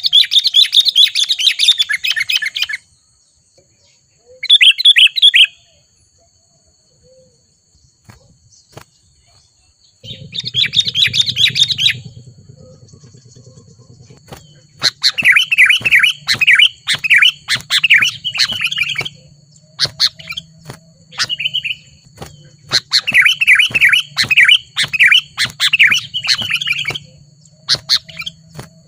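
Sooty-headed bulbuls (kutilang) singing in bursts of quick chirping phrases a second or more long, separated by short pauses, the phrases coming closer together in the second half. A steady low hum runs underneath from about ten seconds in.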